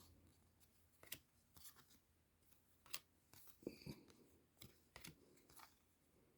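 Faint, scattered clicks and slides of baseball trading cards handled one by one, with a small cluster of ticks about four seconds in.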